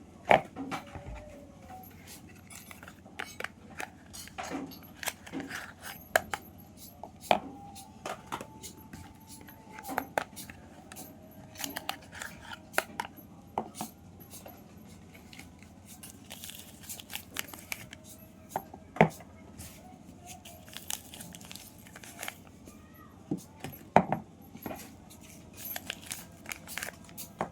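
Soap packaging being opened by hand: irregular crinkling, tearing and sharp clicks of paper, cardboard and plastic wrapping, with a few louder snaps.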